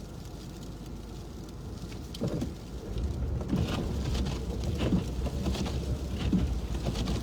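Car interior noise while driving on a snow-covered road: a low engine and road rumble that grows louder about three seconds in, with irregular ticks of sleet and wet snow hitting the windshield.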